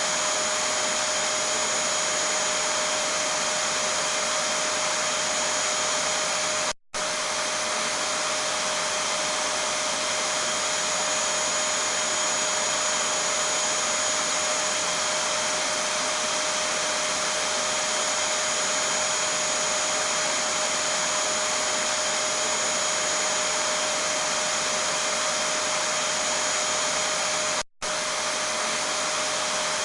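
Vacuum cleaner running steadily: an even rush of air with a constant high whine over it. The sound cuts out for an instant twice, about 7 seconds in and again near the end.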